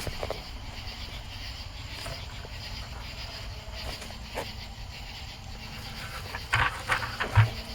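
A large insect's agitated noise: a short burst of rapid pulses about six and a half seconds in, with a low thump among them near the end.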